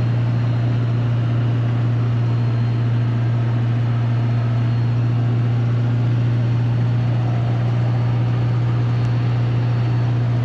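Steady low drone of a vehicle engine running, even and unchanging throughout.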